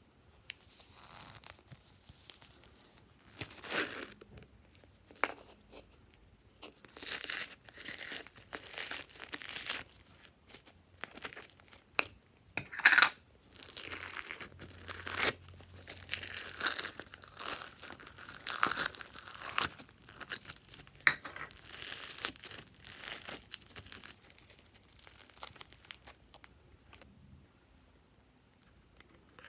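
Glossy slime being kneaded and stretched by hand: irregular sticky crackles and pops, with a few louder pops in the middle, dying away near the end.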